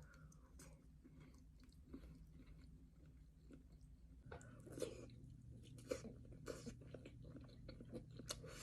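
Faint chewing and wet mouth sounds of a person eating close to the microphone, with scattered soft clicks and smacks, a few louder ones in the second half.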